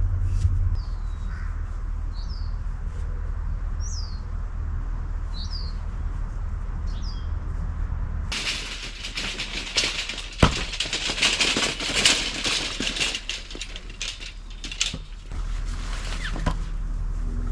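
Small birds giving short falling chirps, about six of them, over a low steady rumble. About eight seconds in, loud rustling and clattering takes over for several seconds, with sharp knocks, then dies back to the rumble.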